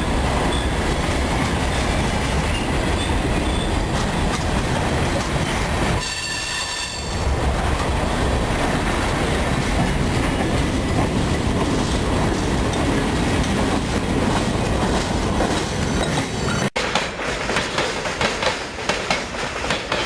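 Freight train of grain hopper cars rolling past with a steady rumble. A brief high wheel squeal comes about six seconds in. Near the end the wheels clatter rhythmically over rail joints.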